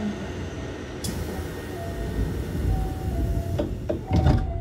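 Running noise of a Hankyu 7000 series electric train heard from inside the car: a steady rumble of wheels on rail, with a sharp click about a second in and heavier low thumps near the end. Faint music comes in underneath from about two seconds in.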